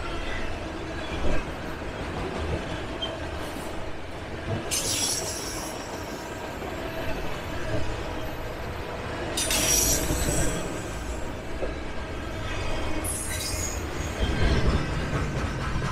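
Norfolk Southern train with its wheels squealing in three short spells over a steady low rumble.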